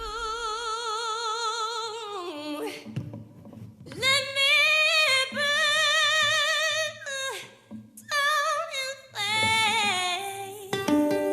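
A woman singing long held notes with a wide vibrato, in four phrases with short breaths between, with little or no accompaniment underneath.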